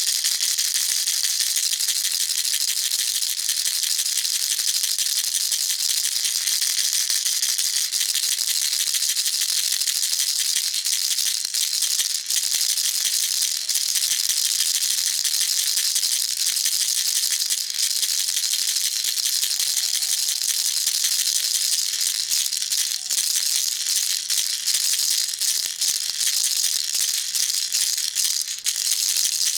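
Baby rattle shaken without pause, its beads making a dense, steady, high-pitched rattling, a little more broken into separate clicks near the end.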